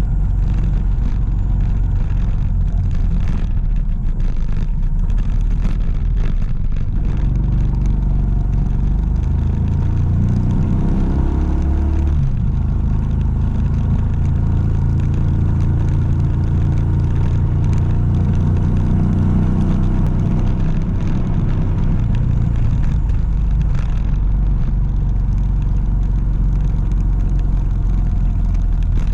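A motor vehicle's engine running. Its pitch climbs for a few seconds and drops suddenly about twelve seconds in, like a gear change, then holds steady for several seconds, over a constant low rumble.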